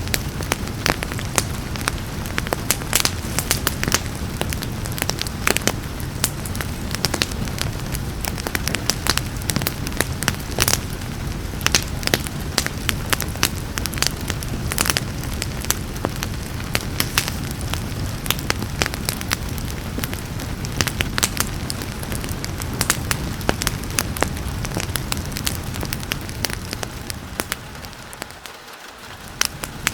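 Wood fire crackling with frequent sharp pops over a steady hiss and low rumble, blended with falling rain. The sound dips briefly near the end, then comes back.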